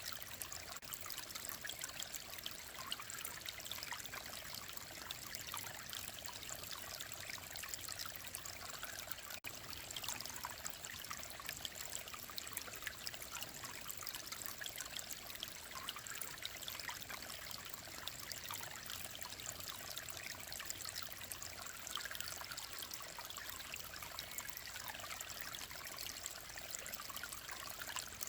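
Mountain stream running steadily, a continuous babbling and trickling of water.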